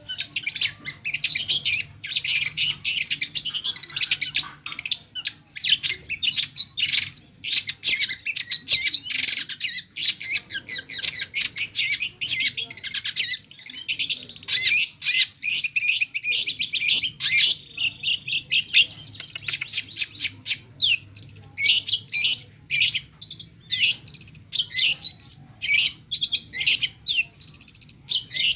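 Long-tailed shrike singing in a fast, unbroken stream of varied chirps and short notes, packed with mimicked songs of other birds.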